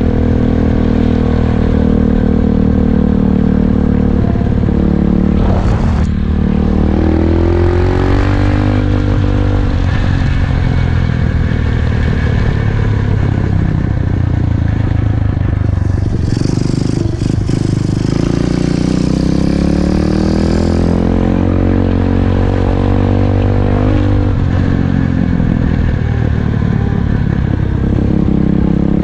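SSR 125cc single-cylinder dirt bike engine running while being ridden, its revs climbing and dropping back several times as it is accelerated and eased off.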